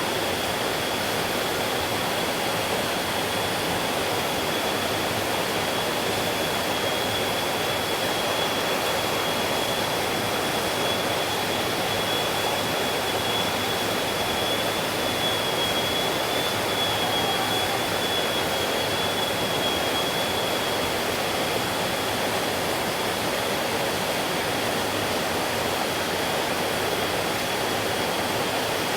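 Mountain stream flowing: a steady rush of water, with a thin, steady high tone above it.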